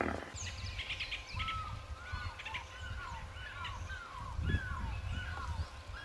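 Birds calling: many short chirps repeated two or three times a second, over a low rumble.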